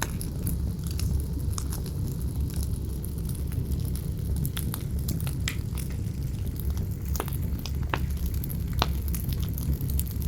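Campfire crackling with irregular sharp pops, a few louder snaps in the second half, over a steady low rumble of wind.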